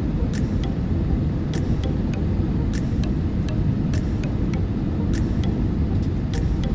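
Airbus A320-200 cabin noise in flight: a steady, loud, low drone of engines and airflow. Faint regular ticks run over it, about two a second.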